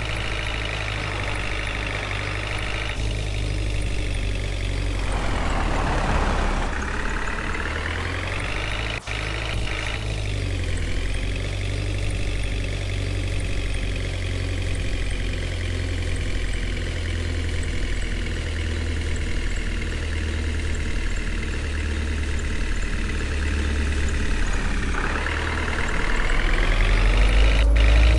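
A heavy vehicle engine running steadily, its pitch rising and falling as it revs about 5 seconds in and again near the end, where it gets louder.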